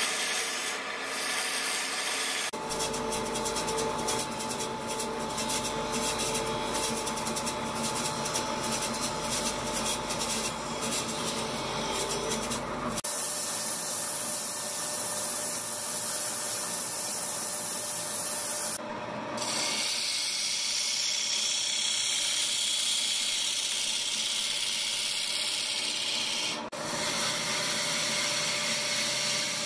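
Sawmill machinery working timber, a continuous rasping, rubbing wood-cutting noise with a steady machine hum under it. The sound changes abruptly several times.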